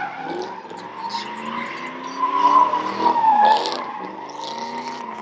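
A car engine revving up and down while its tyres squeal in a slide, loudest around the middle.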